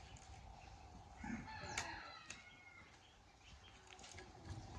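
A rooster crowing once, faintly, a little over a second in.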